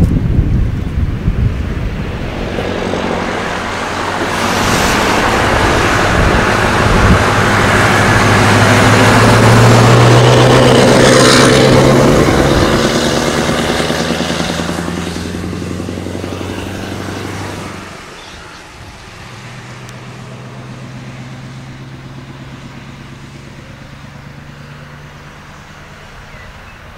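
Scania V8 truck driving past. Its engine note builds, is loudest about ten seconds in, then fades away. A quieter engine keeps running steadily after that.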